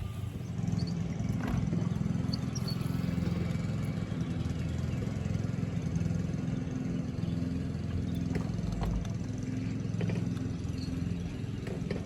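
Small boat motor running steadily with a low, even hum, and a few faint ticks over it.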